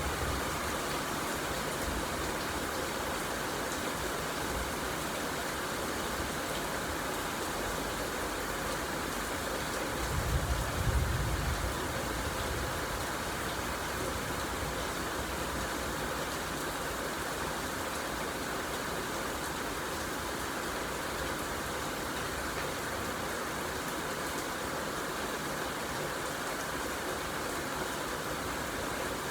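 Steady rainfall hissing, with a brief low rumble about ten seconds in.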